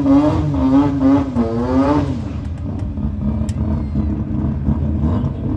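Car engine at a drag strip revving, its pitch wavering up and down. About two seconds in it drops to a lower, steadier running note.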